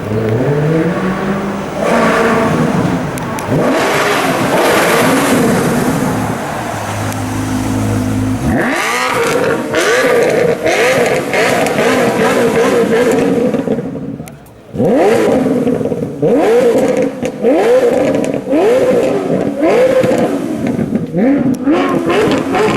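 Maserati Quattroporte GTS 4.7-litre V8 through a Larini sports exhaust, pulling with the pitch climbing and falling for the first eight seconds or so. Then it is revved in a quick run of short bursts, the pitch rising sharply about once a second, with a brief lull about fourteen seconds in.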